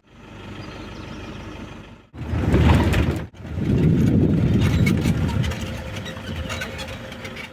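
Safari jeep riding noise: engine and rumble, broken by abrupt cuts into three stretches, quieter at first and louder after the second cut.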